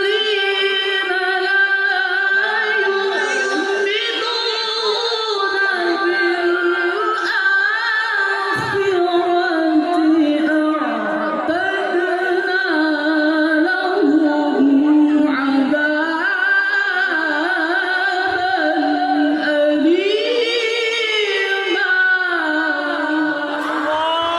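A man's high voice reciting the Quran in the melodic tilawah style. He holds long notes and winds them through ornamented runs, one drawn-out phrase after another.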